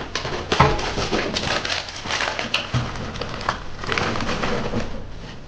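Paper being crumpled and stuffed into a wood stove over the kindling: a run of irregular rustles and crackles with sharp clicks and knocks.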